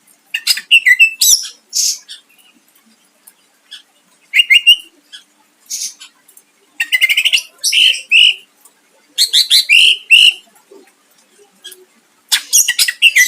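A cucak ijo (green leafbird) singing loud, rapid bursts of sharp, piercing notes and mimicked phrases, with short pauses between the bursts.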